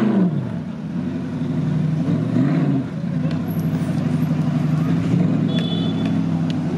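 Audi R8's V10 engine idling, blipped twice. One short rev rises and falls away just at the start, and another comes about two and a half seconds in.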